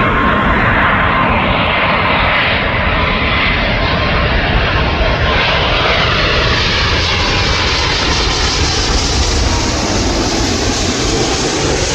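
Widebody jet airliner passing low overhead on final approach to land, its engines giving a loud, steady jet noise with a whine that drops in pitch as it goes by.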